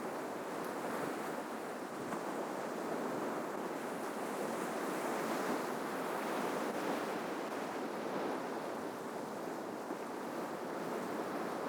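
Ocean surf washing on the shore, a steady rushing wash of breaking waves that swells a little midway.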